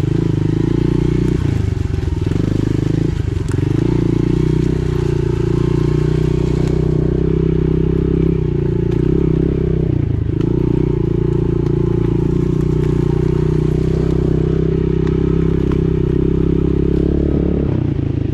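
Pit bike engine running steadily under throttle while riding, easing off briefly a few times with short dips in pitch before picking up again.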